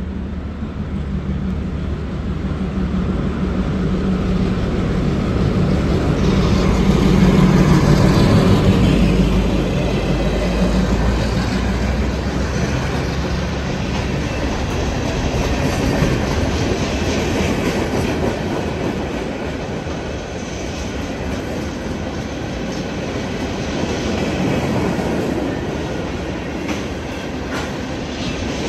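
A diesel-hauled work train passing close by. The locomotive's engine hum swells and is loudest about seven to nine seconds in, then fades as the wheels of ballast hoppers and flatcars rumble and clack steadily over the rails.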